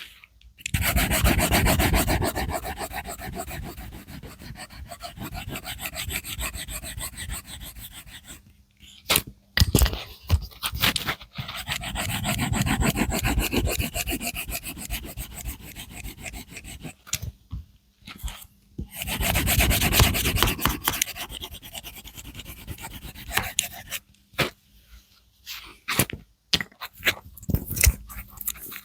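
Colouring strokes scratching and rubbing back and forth on paper in long runs of several seconds, with short taps of the tool between them.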